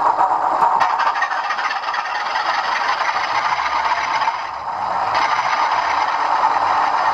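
Model Class 37 locomotive's sound decoder playing the recorded diesel engine running after start-up, through two small iPhone speakers wired in series, with little low end. It dips briefly about four and a half seconds in, then carries on.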